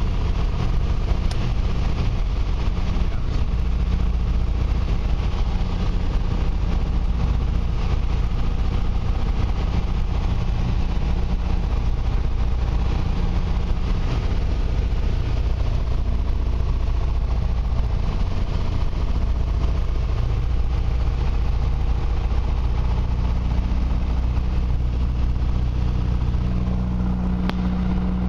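Piper Cherokee's piston engine and propeller running as a steady low drone while the plane comes in to land, the tone shifting slightly partway through.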